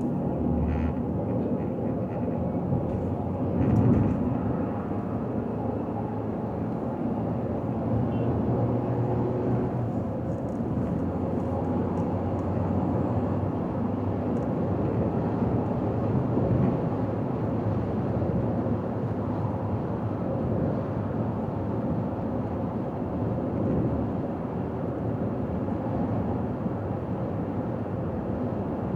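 Car driving along a highway: steady road and engine rumble, with a brief louder bump about four seconds in.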